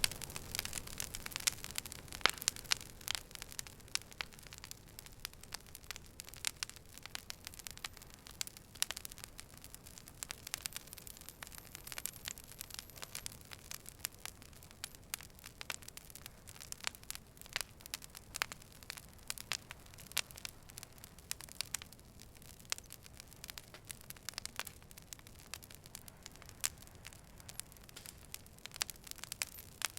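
Fire crackling: irregular sharp pops and snaps, many a second, over a soft steady hiss.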